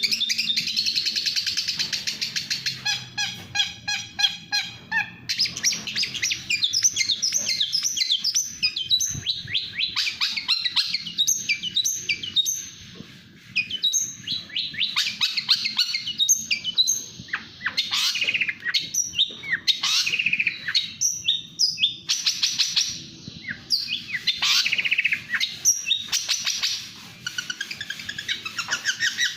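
Long-tailed shrike (cendet) singing a fast, nearly continuous song of rapid trills and varied high chirps, with a brief lull about halfway through.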